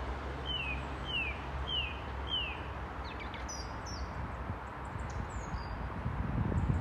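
Wild birds singing: four clear falling whistled notes about half a second apart, then shorter, higher chirps from about halfway through, over a steady low background rumble.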